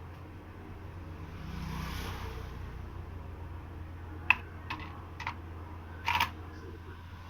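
A steady low hum with a soft rustle early on, then four or five sharp clicks in the second half, the first the loudest.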